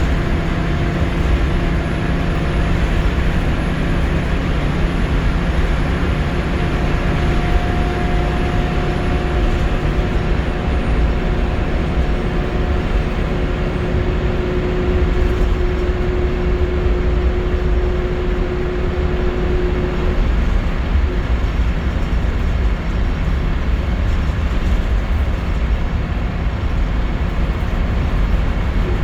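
Scania L94UB Wright Solar single-deck bus heard from inside the saloon while running: steady engine and road rumble. A steady whine rides over it and stops about two-thirds of the way through.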